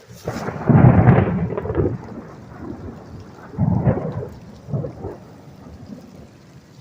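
Thunder rumbling during a thunderstorm over steady rain: a loud peal about a second in, a second one a little under four seconds in, and a smaller one just after.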